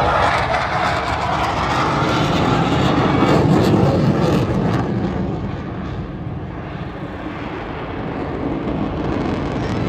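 Air show aircraft flying past, its engine noise swelling to a peak a few seconds in and then fading as it moves away.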